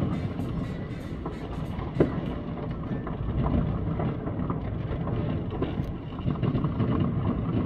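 Fireworks going off across a city: a continuous low rumble of bangs, with scattered crackles and one sharper bang about two seconds in.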